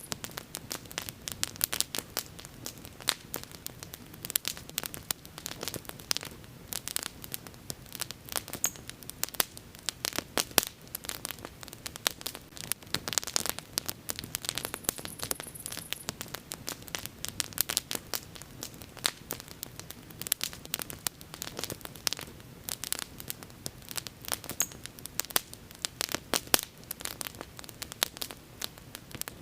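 Wood fire burning with dense, irregular crackling and popping over a low, steady hiss.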